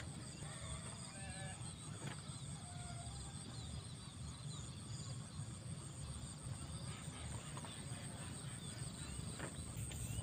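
Birds calling with short chirps, mostly in the first three seconds, over a steady high-pitched hum and a faint low rumble.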